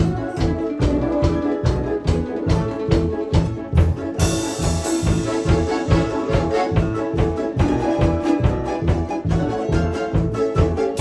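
Russian folk instrument orchestra (bayans, balalaikas, domras) playing a piece with a steady bass beat; a cymbal crash comes in about four seconds in and rings on.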